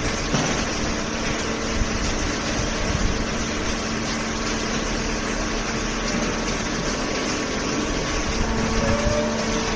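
Automatic horizontal cardboard baler running: a steady mechanical hum from its hydraulic pump and motor.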